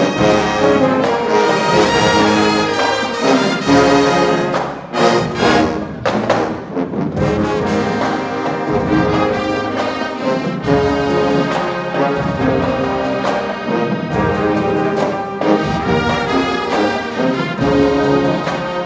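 HBCU-style marching band playing a loud, brass-heavy tune, with trombones and trumpets to the fore.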